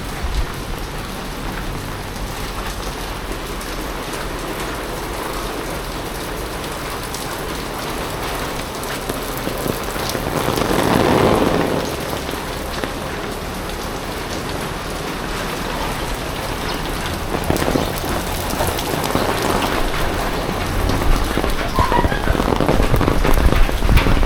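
Heavy typhoon rain falling and pattering on surfaces in a steady wash, with a louder swell about halfway through.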